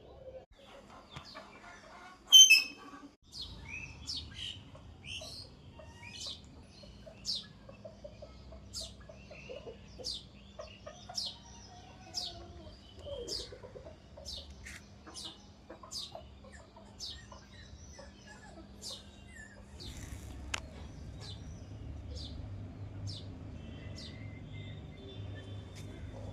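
Birds chirping: a long run of short, high, repeated chirps, with one louder call about two seconds in. A low rumble comes up in the last few seconds.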